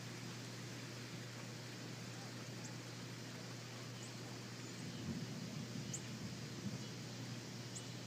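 Steady hiss and low hum, with a few faint, very short high-pitched bird chirps scattered through it.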